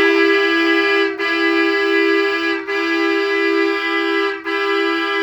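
A horn sounding in long blasts, two close notes together, broken by brief gaps about every second and a half.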